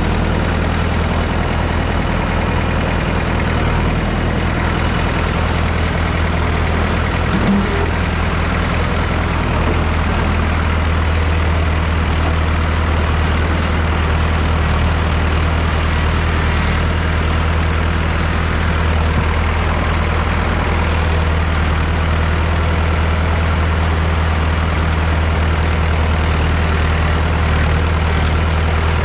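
Massey Ferguson 3165 backhoe tractor's diesel engine running steadily with an even, low hum.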